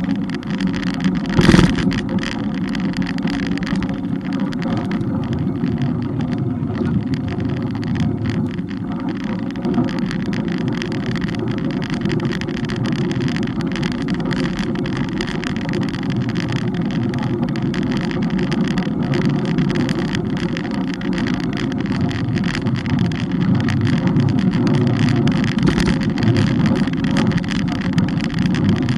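Steady wind and road rumble picked up by a camera on a moving bike, with a single sharp knock about a second and a half in.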